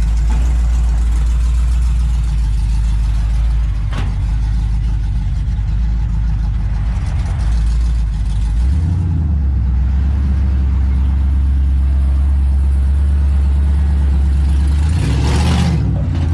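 Car engine running steadily at a low idle, its pitch stepping up about nine seconds in. There is a single sharp click about four seconds in.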